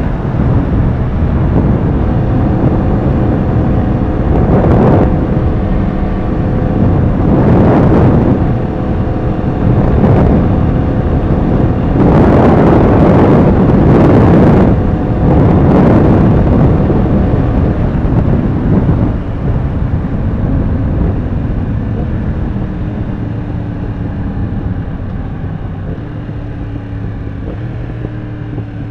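Yamaha R1's inline-four engine running under way, with wind rushing past the rider. Several loud surges of engine and wind noise come through the middle, then the sound grows steadily quieter over the last ten seconds.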